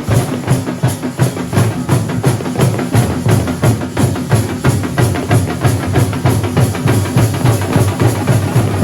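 Kerala thambolam drum troupe playing a loud, fast, driving rhythm, with heavy low drum beats repeating at an even pace under dense sharper strokes.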